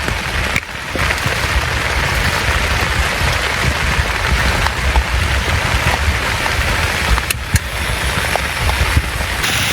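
Heavy rain falling steadily, a dense even hiss with scattered drop ticks. It briefly dips twice, once about half a second in and again past seven seconds.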